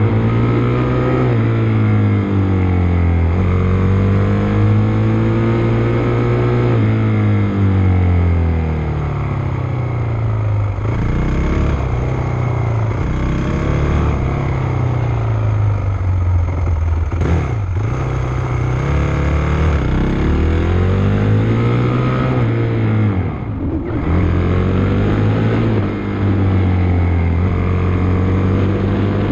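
Motocross bike engine being ridden, its pitch climbing under throttle and dropping back over and over, with two short sharp drops in revs about halfway through and again two-thirds of the way in.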